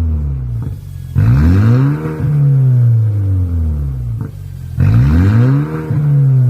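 BMW 428i's turbocharged four-cylinder engine, on an exhaust pop tune, blipped twice: each time it revs up quickly and falls slowly back. A few sharp exhaust pops sound as the revs drop.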